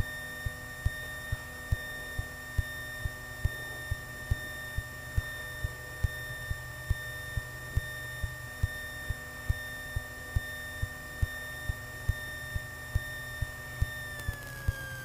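Piper Archer II cockpit intercom feed with the engine running: a low steady hum under sharp regular pops about twice a second, and a steady electrical whine that drops in pitch near the end.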